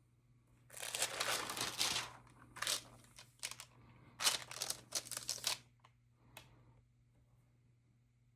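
Stamp album pages being handled and turned, with several bursts of crinkling paper or plastic over the first half and a single soft click after them.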